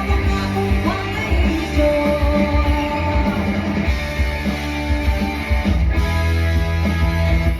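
Live band music in a rock style, led by guitar over a strong bass line.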